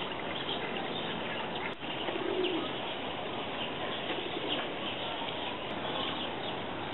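Outdoor bird sounds: scattered faint chirping over a steady background hiss, with one short low call about two and a half seconds in.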